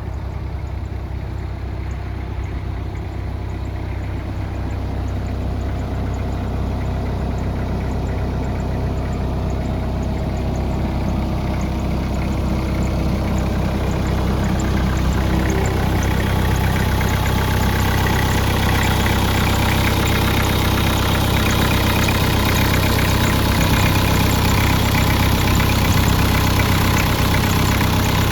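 Caterpillar 305 mini excavator's diesel engine running steadily, growing gradually louder from about halfway in.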